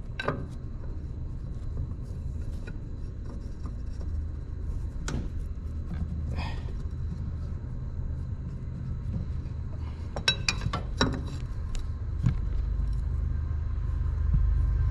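Scattered metallic clicks and knocks of hand tools working at the hydraulic filter of a 1989 Kubota KH040 mini excavator, with a cluster of knocks about ten seconds in, over a steady low rumble that grows louder near the end.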